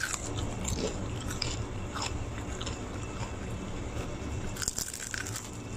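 Someone chewing crisp-fried stuffed tofu, the battered crust and crunchy vegetable filling giving scattered short crunches over a steady low hum.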